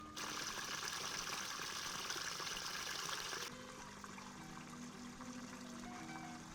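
Water running or pouring steadily for about three seconds, cutting off suddenly, then a softer trickle continues.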